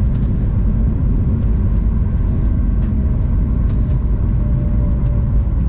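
Steady low rumble inside the cabin of a Boeing 737 MAX 9 rolling on the ground after landing, its engines at idle, with a few faint clicks.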